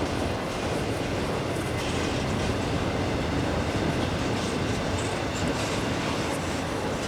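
CSX freight train cars rolling past steadily on the rails, with the steady rumble of wheels on track.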